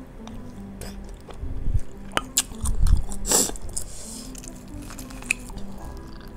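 Close-up chewing and biting of bakso meatballs, with a short slurp of broth from a spoon about three seconds in, over faint background music.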